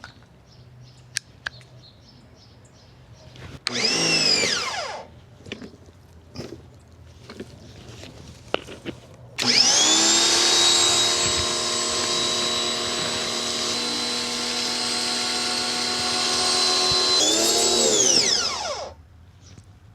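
Electric pressure washer (Ryobi 2000 PSI) motor and pump running on trigger pulls, with a steady whine. A short burst about four seconds in spins up and winds straight down. A longer run starts suddenly about halfway through and holds for about eight seconds before winding down, with no nozzle tip yet fitted to the wand. Light clicks of handling come between the runs.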